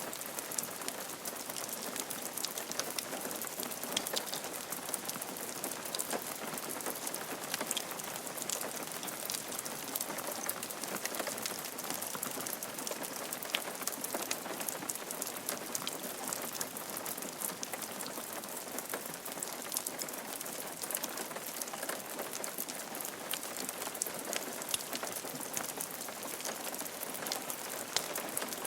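Steady rain falling on a roof, a dense patter of many small drop ticks.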